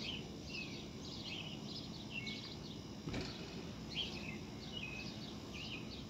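Birds chirping in short high notes, about two a second, over steady outdoor background noise.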